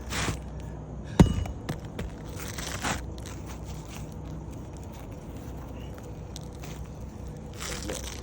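Scraping and crunching on asphalt roof shingles, with one sharp knock about a second in and a few short scrapes after it, over a steady low hum.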